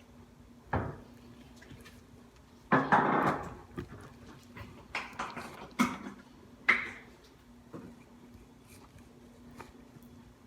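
Dishes and food being handled at a meal: scattered knocks and clicks, with one louder scraping noise lasting under a second about three seconds in.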